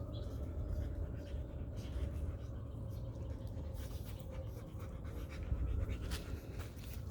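A dog panting, with scattered light clicks and taps in the second half.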